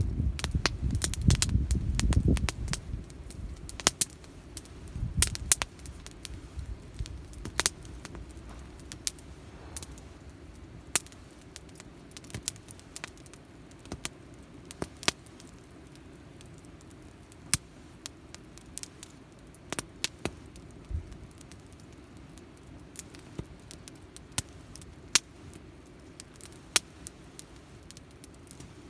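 Wood campfire burning in a Picogrill folding fire pit, crackling with sharp, irregular pops and snaps. A low rumble sits under it in the first couple of seconds.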